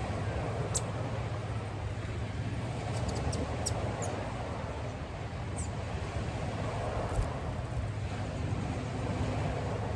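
Small birds giving a few brief, high, down-slurred chirps, scattered singly and in a quick cluster, over a steady low background rumble.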